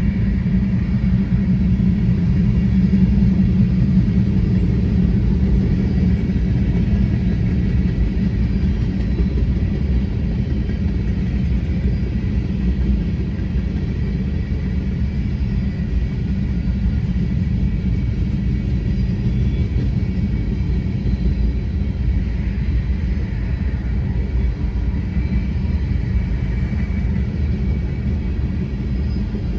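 Freight train of empty grain hopper cars rolling past, a steady loud rumble of steel wheels on the rails.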